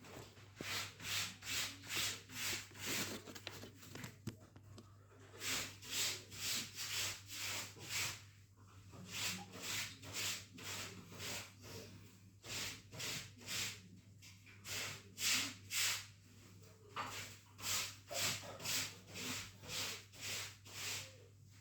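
Back-and-forth rubbing strokes, like hand sanding or scraping, about two to three a second, in runs of several strokes with short pauses between, over a low steady hum.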